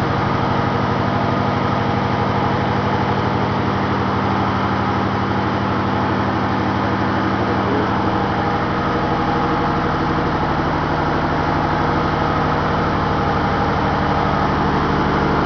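Ship's engine-room diesel engine running steadily, a constant hum with fast, even firing pulses.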